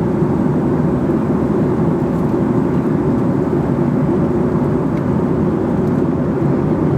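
Passenger airliner cabin noise in flight: a steady, even rush of engine and airflow noise, deepest in the low range, heard from inside the cabin.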